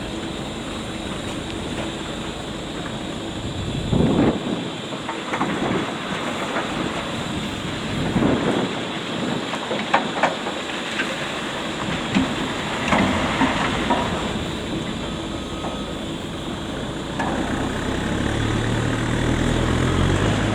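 Railway train moving through a station, with a steady rumble and several sharp clanks and knocks. A low hum grows louder near the end, then the sound cuts off suddenly.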